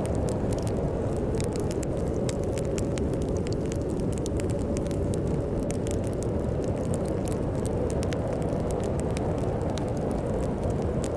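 Wood fire crackling in a fireplace, many quick irregular pops and snaps, over a steady low rumble of storm wind.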